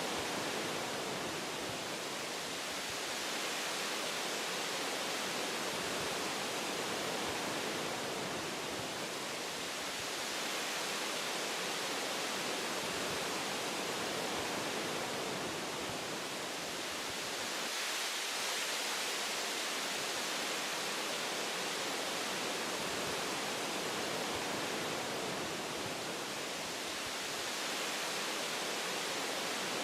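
Wind blowing through forest branches and leaves: a steady rushing hiss that swells and eases gently every several seconds.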